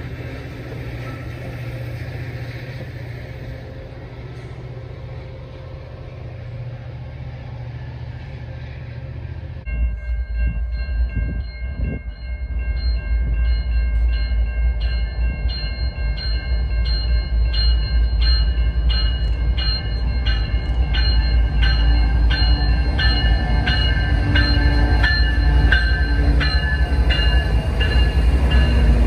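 Metra bilevel commuter train rolling past the platform with a steady low diesel hum. After a sudden change about ten seconds in, a Canadian National freight train's diesel locomotives approach with a heavy rumble that grows louder, while a crossing bell dings over and over at a steady rhythm.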